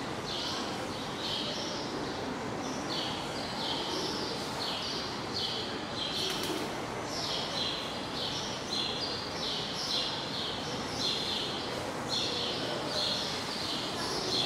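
Small birds chirping, short high calls repeated about twice a second, over steady background noise.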